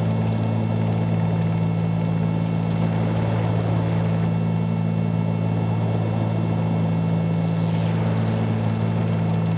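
Twin piston engines and propellers of a 1974 Cessna 310Q droning steadily in flight, an even low hum with no change in pitch.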